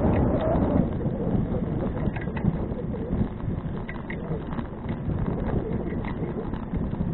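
Wind rumbling on an action camera's microphone while riding a touring bicycle, with many small knocks and rattles from the bike over the road surface.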